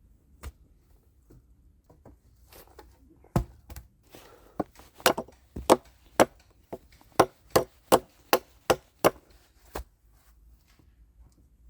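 Dead wood being chopped with a hand tool: a run of about fifteen sharp blows, roughly two a second, starting about three seconds in and stopping near the end.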